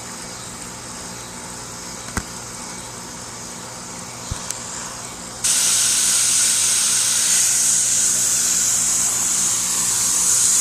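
Garden hose spray nozzle on its mist setting, turned on about five seconds in: a sudden, loud, steady hiss of spraying water. Before it, only a couple of faint clicks.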